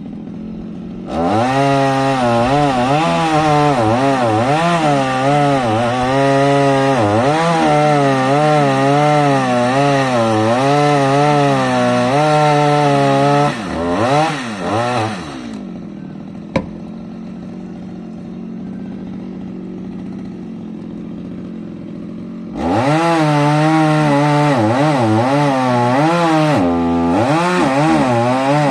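Chainsaw idling, then run at full throttle for about twelve seconds with its pitch wavering as it cuts wood. It drops back to idle after a couple of short blips and is throttled up again about two-thirds of the way through.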